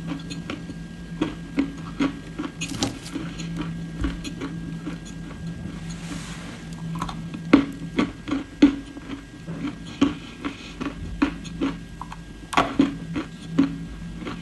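Close-up crunching of edible clay being chewed: irregular sharp crackles and clicks, several a second, over a steady low hum.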